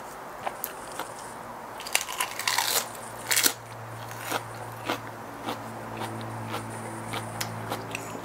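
Close-up chewing of crisp lettuce and raw-salmon salad: wet crunches and mouth clicks, with two louder crunches of biting about two and three and a half seconds in. A low steady hum runs underneath in the second half.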